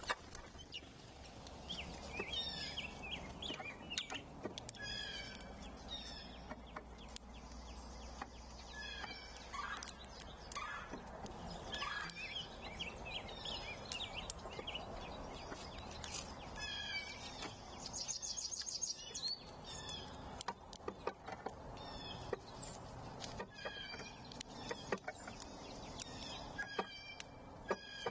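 Several songbirds chirping and singing in short repeated phrases, with a brief rapid high trill about two-thirds of the way through and scattered sharp clicks.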